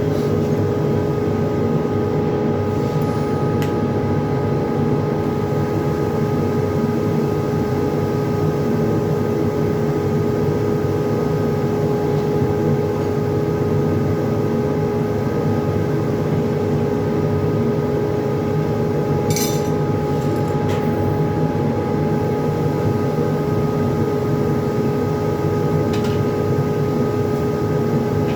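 Yaskawa robotic TIG welding cell working on tubes: a steady hum and hiss with a constant whine, broken by a few short clicks.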